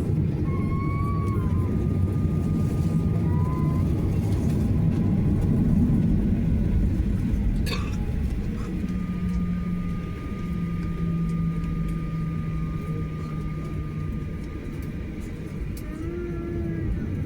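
Steady low rumble inside the cabin of a Boeing 737-900ER airliner, with a single sharp knock about eight seconds in. A thin steady whine joins the rumble about nine seconds in and fades out around fourteen seconds.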